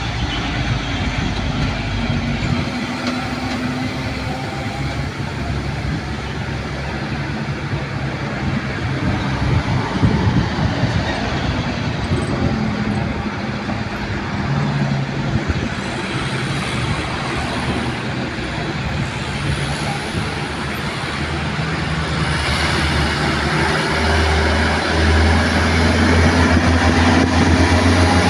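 Heavy truck diesel engines labouring through the bends, mixed with road traffic noise; a loud low engine drone builds over the last few seconds as a truck comes close.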